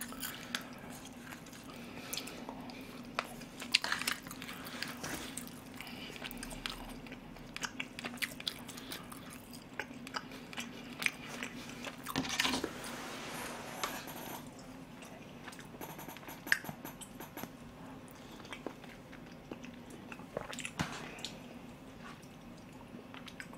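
Close-miked chewing and wet mouth sounds of someone eating rice porridge, with many small scattered clicks, over a steady low hum.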